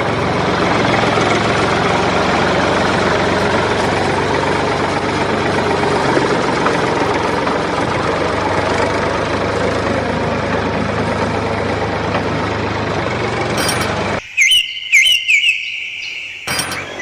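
A motor running steadily with a dense mechanical noise, which cuts off abruptly near the end. Short high whistle-like chirps follow the cut.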